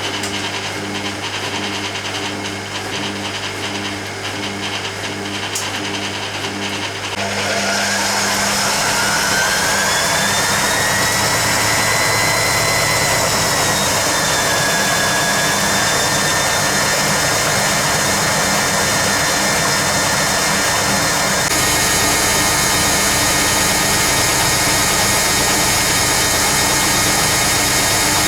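Hoover Keymatic A3112 washing machine with a steady hum as it drains. About seven seconds in, the drum starts its 500 rpm interim spin: the sound gets louder and a motor whine rises, wavers and settles. It then runs steady to the end.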